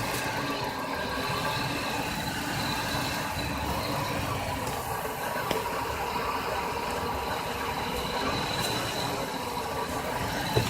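Car engine idling steadily, with a steady hiss from a vacuum leak at a broken hard plastic vacuum line.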